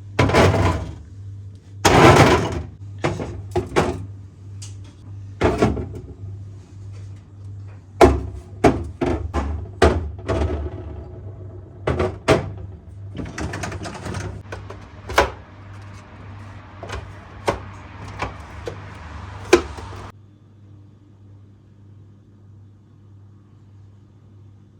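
Knocks, clicks and clatter of containers and food items being handled, set on shelves and moved in and out of a refrigerator, over a low steady hum. The handling sounds and the hum stop together about 20 seconds in.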